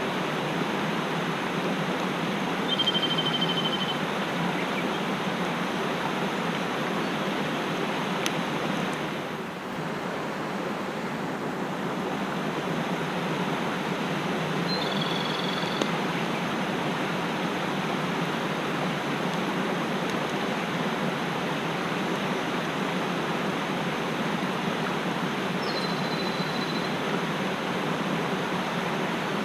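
Mountain stream rushing steadily over rocks. A bird gives a short, high, whistled note three times: near the start, midway, and near the end.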